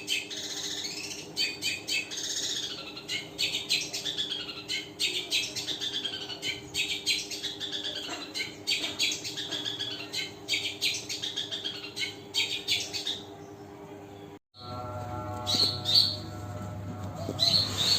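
Long-tailed shrike (cendet) singing a rapid, varied chattering song of quick chirps and whistles over a steady low hum. The song stops about thirteen seconds in; after an abrupt cut, only a hum and a few short chirps remain.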